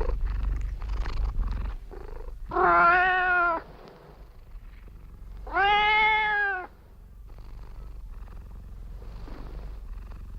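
Domestic cat purring, with two long meows about three seconds apart; the purring is fainter after the meows and then cuts off suddenly.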